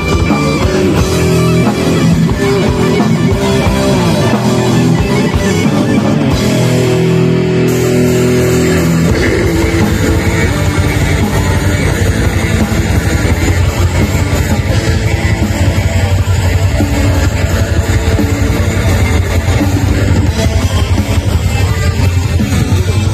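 Live metal band playing loud: a guitar-led melodic passage, then about nine seconds in the full band with fast drumming and heavy bass comes crashing in.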